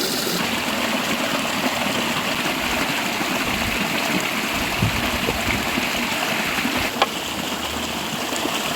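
Clear river water running steadily over rocks, with a single sharp knock about seven seconds in.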